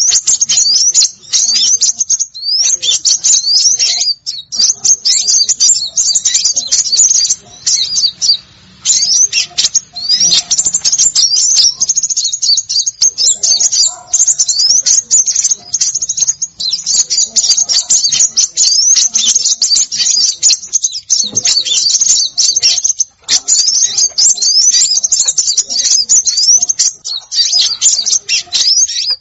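Dense, rapid high-pitched chirping and twittering of several small songbirds, many short rising notes crowding one another with only brief pauses. This is a bird-trapping lure recording of small birds.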